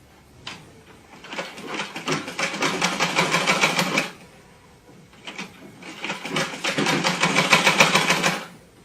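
Small motorcycle engine revved hard twice, each rev held about three seconds with a fast, rattling firing beat before the throttle is shut off sharply.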